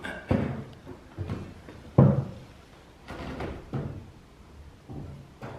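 Irregular heavy knocks on wooden attic framing: hammer or mallet blows driving a joist or blocking into place, about nine strikes, the loudest about two seconds in.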